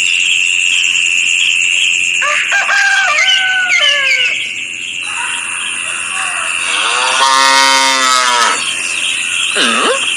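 Farm animal calls, with a long cow moo about seven seconds in and shorter gliding calls a few seconds earlier, over a steady high-pitched tone.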